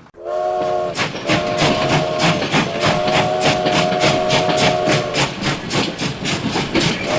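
Steam locomotive chuffing at about four beats a second while its whistle blows a multi-note chord in several long blasts.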